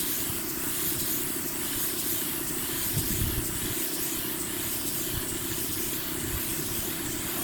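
Steady hissing noise over a constant low machine drone.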